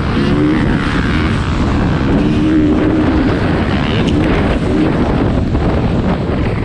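Dirt bike engine revving up and down as it is ridden on a motocross track, its pitch rising and falling several times over a heavy low rumble.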